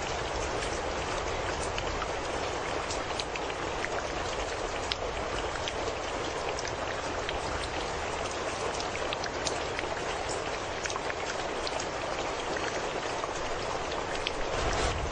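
Steady rain falling, with many individual drops ticking sharply against a surface over a continuous hiss of rainfall.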